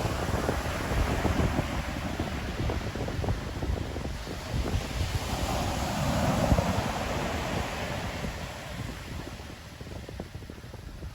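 Ocean surf breaking and washing on the shore, with wind buffeting the microphone in a low rumble. A wave swells up about six seconds in, then the sound eases off near the end.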